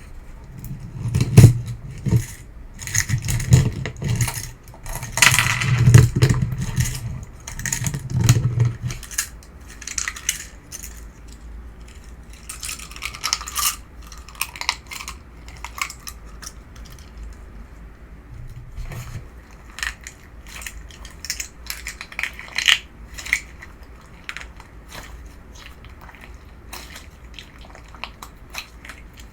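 Hands pressing and squeezing a semi-crunch slime with petal pieces in it: a run of small crackles and clicks, with dull thumps as it is pressed during the first third.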